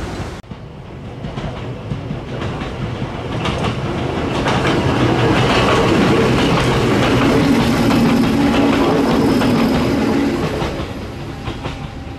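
Hakone Tozan Railway electric train passing along the mountain track, its wheels clicking over the rail joints. It grows louder to a peak midway, with a low steady tone while it is closest, then fades as it moves away.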